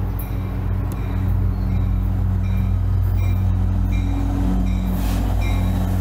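Diesel passenger locomotive running with a deep steady engine drone that gets louder about a second in, and its bell ringing repeatedly from about halfway through.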